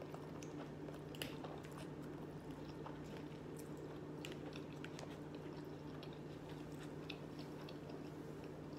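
Close-miked chewing of shrimp and rice, with soft wet mouth clicks and a few light taps of a plastic fork in a plastic bowl, the sharpest about a second in, over a faint steady hum.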